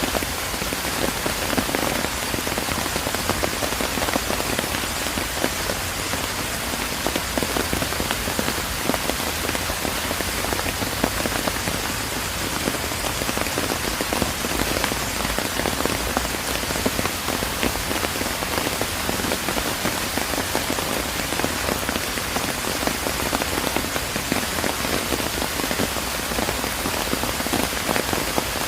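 Steady rain falling in a park, a dense even patter of many drops hitting surfaces.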